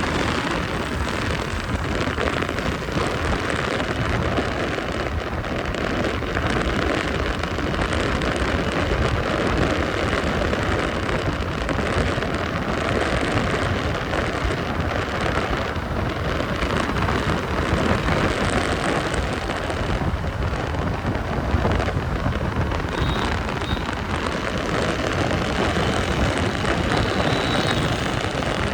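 Steady road noise of a motorbike riding through traffic in light rain: its engine running under the hiss of rain and wet road.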